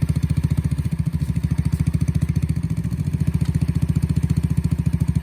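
Dirt bike engine idling steadily on its own while it warms up, with the choke off after a kick start.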